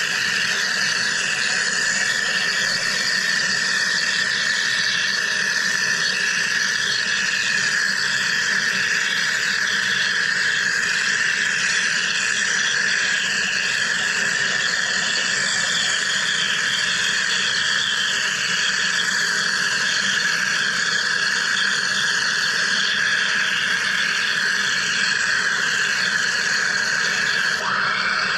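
Wire EDM machine cutting: a steady high-pitched whine with a fine, continuous crackle above it.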